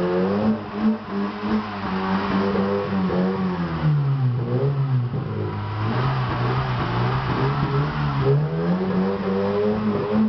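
Volkswagen Golf engine revving through an aftermarket valved sports exhaust: revs held up, easing down through the middle, then climbing again near the end.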